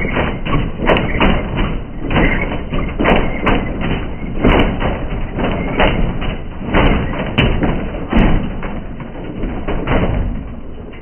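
Washing machine running hard during a deliberate crash test, banging and thudding repeatedly, a few knocks a second. The knocks ease slightly near the end.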